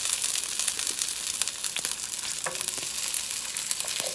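Frozen potstickers frying from frozen in a shallow layer of hot oil in a stainless-steel pan: a steady sizzle with a dense crackle of small pops.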